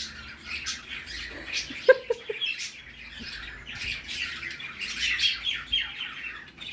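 Cockatiel giving a continuous budgerigar-style warble: a fast, scratchy run of high chirps and squawks, imitating a budgie's chatter.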